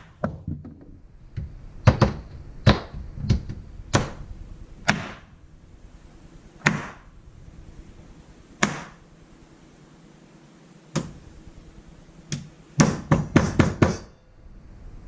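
Kitchen clatter: single sharp knocks and taps of objects being handled and set down on a counter every second or two, then a quick run of about seven knocks near the end.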